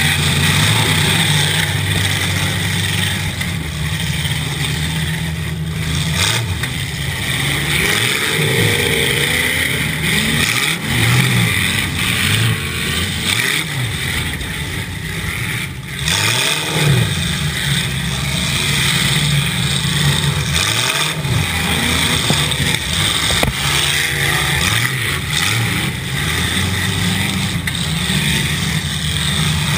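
Demolition derby car's engine running and revving up and down over and over as the car drives, heard from inside its cab.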